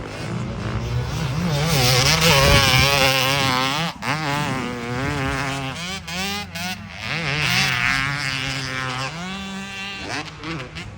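A vehicle engine running, its pitch wavering and rising and falling over a steady rush of road noise.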